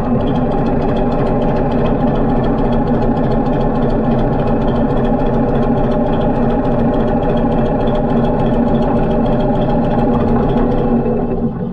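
Harley-Davidson V-twin motorcycle engine running at a steady speed, its pitch unchanging, with the sound falling away right at the end.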